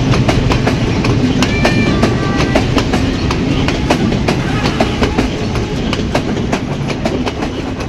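Passenger train coaches rolling past close by: a steady low rumble of wheels on rail with frequent sharp clacks over the rail joints, and a few short high tones about two seconds in.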